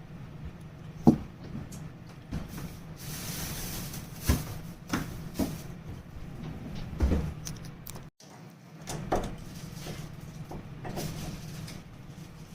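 Old doorknob and its latch being worked by hand, giving a series of irregular clicks and knocks, the sharpest about a second in.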